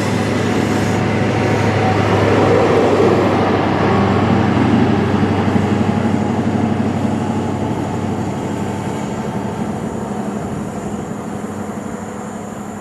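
A train passing at speed. Its running noise builds to a peak a few seconds in, then slowly fades as it draws away.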